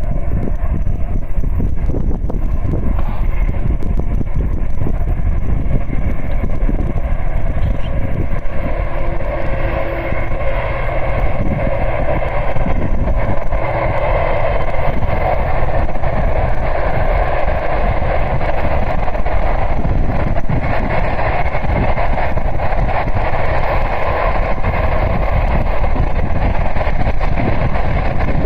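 A train passing on the line, a loud continuous rolling noise that swells about ten seconds in and holds.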